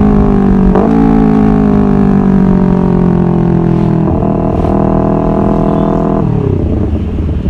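Honda CBR250RR motorcycle engine running at high revs under way, its pitch slowly falling as the bike slows, with the revs jumping up briefly about a second in and again about four seconds in, like downshifts. About six seconds in, the revs drop away to a lower, rougher running.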